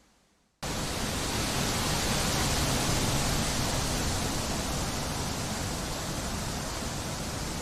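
Wind blowing through trees as a steady, even rushing hiss that starts abruptly a little over half a second in after a moment of near silence, swells slightly and then eases a little.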